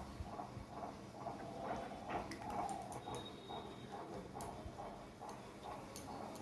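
A person chewing a mouthful of rice and dal close to the microphone, a soft wet smacking repeating about two to three times a second, with a few sharp little clicks.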